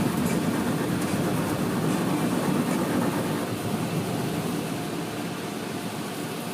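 Car wash machinery and water spray running steadily, a low continuous rumble with a hiss above it, easing off a little in the last couple of seconds.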